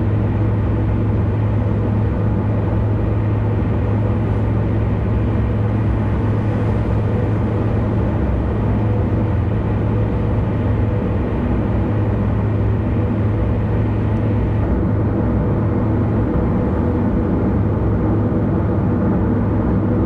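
Car driving at speed on an expressway: steady tyre and engine noise with a constant low hum, and a slight dulling of the hiss about three-quarters of the way through.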